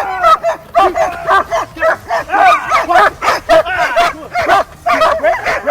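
Protection-trained guard dog barking rapidly and continuously, about three barks a second, in an aggression drill against a decoy.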